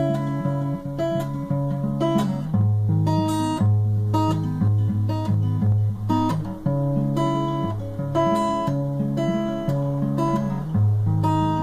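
Acoustic guitar with a capo on the fourth fret, fingerpicking an arpeggiated intro that moves between A minor and E minor shapes, sounding as C-sharp minor and G-sharp minor. A steady run of bass notes fills out the arpeggio, with the open second string ringing over the E minor shape.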